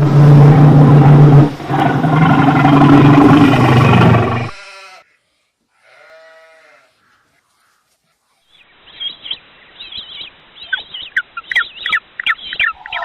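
An animal's loud, drawn-out call lasting about four and a half seconds, bleat-like. It is followed by a faint short call, a pause, and then a run of quick, high chirps near the end.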